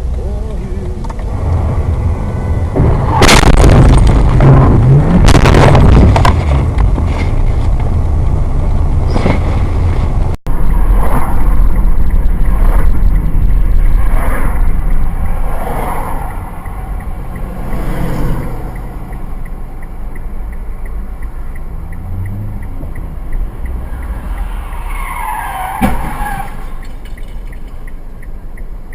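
Car road and engine noise with two loud sudden noises about three and five seconds in, then a sudden change of sound about ten seconds in.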